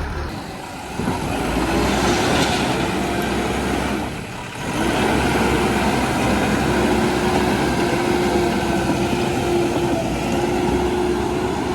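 Heavy diesel engine running under load, with a brief drop in level a little past four seconds, then a steady drone.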